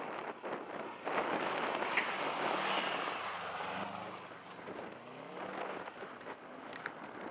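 Subaru Forester's flat-four engine revving hard as the car slides on snow, its pitch rising and falling in the middle, mixed with wind rumble on the microphone.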